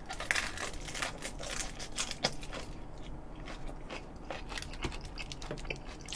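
Close-miked eating sounds: a person biting into and chewing a crunchy cabbage-leaf wrap, with irregular crisp crunches all through.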